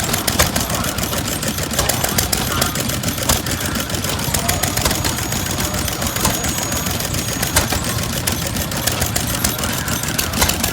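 Antique engines running at the show, a steady, rapid chatter of firing strokes.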